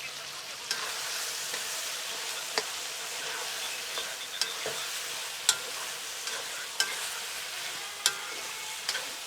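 Food sizzling in a hot pot while it is stirred, with a steady hiss and sharp knocks of the stirring utensil against the pot about once a second or two.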